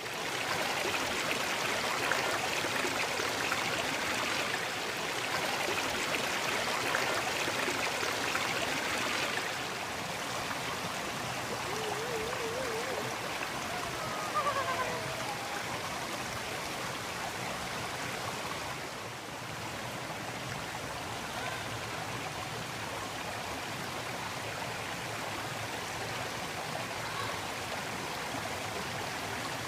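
Waterfall and stream water rushing in a steady wash, a little quieter after about ten seconds.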